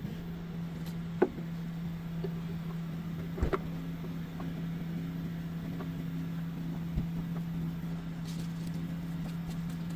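A steady low hum under a few short, sharp clicks and knocks of hands at work. The loudest click comes about a second in, a pair at about three and a half seconds, and another near seven seconds.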